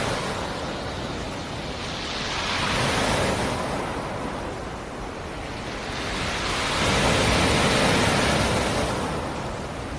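Sea surf: waves breaking on a rocky shore and washing back, swelling and fading about every four to five seconds, with a wave cresting about three seconds in and a louder one near the end.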